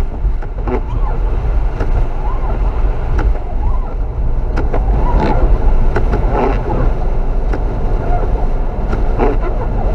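Strong gusting wind from a blizzard blasting the microphone: a steady deep rumble with scattered sharp clicks.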